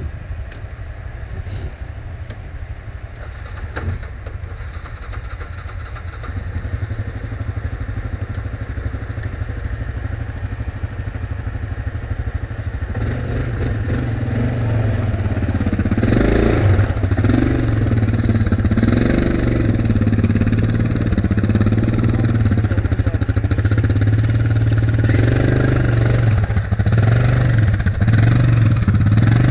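ATV engine running, a steady low hum that grows louder about halfway through, then revs up and down repeatedly.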